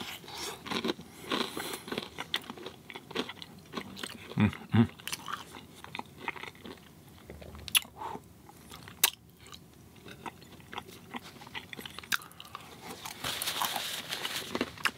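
A person chewing crunchy fried food, with irregular crunches and clicks and a denser stretch of crunching near the end.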